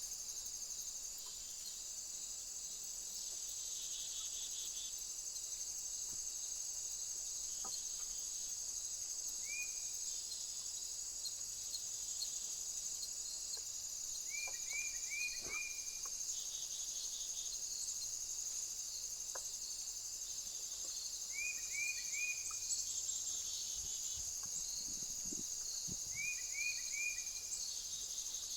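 A steady, high-pitched insect chorus shrills without a break. Over it, a small bird gives quick rising chirps in groups of three or four, four times. A few faint clicks are heard as well.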